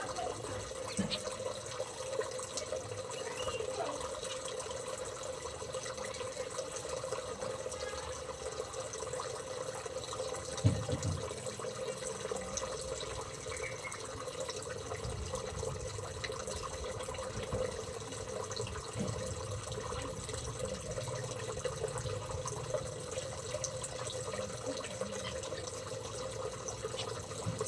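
Steady running water, like a tap or a small water feature trickling, with one short knock about eleven seconds in.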